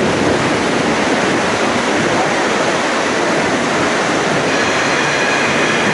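Steady loud rushing noise aboard the moving Royal Gorge Route train: wheels on the rails and wind, without clear rail clicks. A faint thin squeal appears over it about four and a half seconds in.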